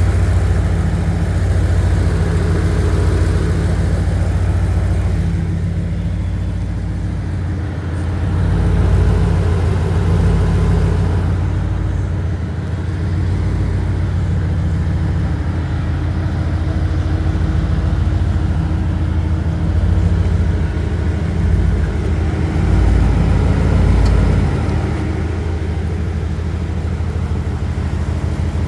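Turbocharged 2006 Saleen S281 Mustang's V8 engine running with a steady low note that swells and eases slightly a few times.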